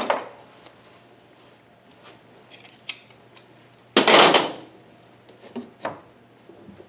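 Metal hand tools clinking as they are handled and rummaged through, with one loud clatter about four seconds in and a few lighter clicks after it.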